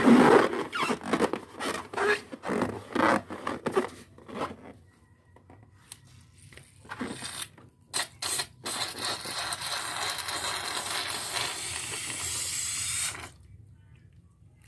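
Air escaping from a balloon: a run of irregular rasping, sputtering bursts, then after a pause a few short bursts and a steady hiss of rushing air for about four seconds that cuts off suddenly.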